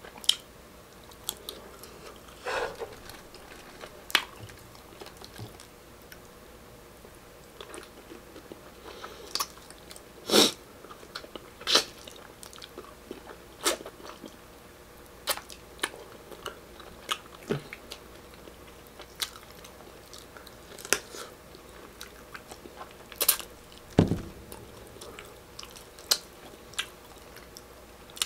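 Close-up mouth sounds of a person eating meat on the bone and rice by hand: wet chewing with scattered sharp lip smacks and clicks every second or two. One low thump near the end.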